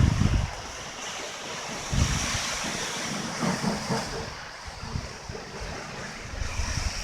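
Strong wind blowing in a steady hiss, with irregular gusts buffeting the microphone in low rumbles, the strongest near the start and about two seconds in.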